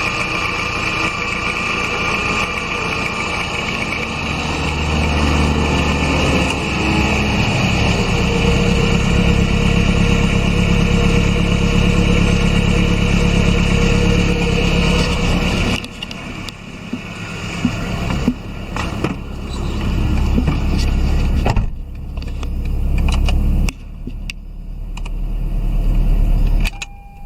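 Toyota MR-S's 1ZZ-FE 1.8-litre inline-four running steadily, then revved in three rising surges in the second half, each dropping back, before it cuts out near the end.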